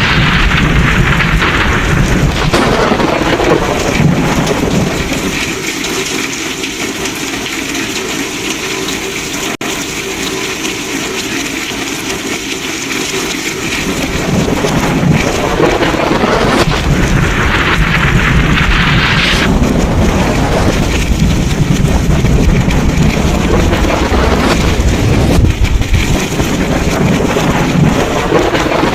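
Thunderstorm: heavy rain falling steadily, with thunder rumbling in long rolls that ease off for several seconds in the middle, then build back up and stay loud.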